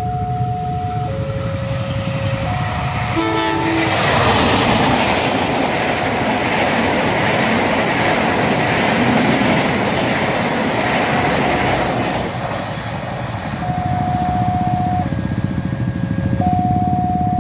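Passenger train horn gives a short blast about three seconds in, then the train's carriages pass close by, rumbling and clattering over the rails for several seconds before easing off. Steady electronic level-crossing warning tones step between two or three pitches at the start and again near the end.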